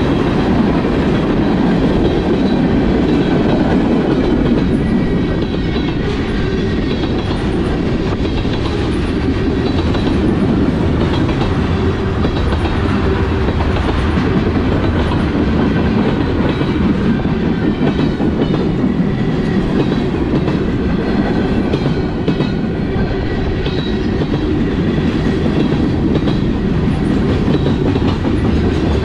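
Freight train cars, tank cars and then covered hoppers, rolling past close by: a loud, steady rumble of steel wheels on the rails.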